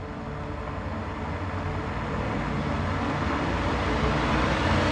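Car driving, with steady road and engine noise growing louder as it picks up speed and a faint whine rising in pitch in the second half.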